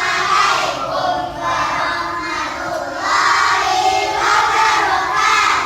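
A class of children chanting a greeting to the teacher in unison, in two drawn-out phrases with a short dip about three seconds in.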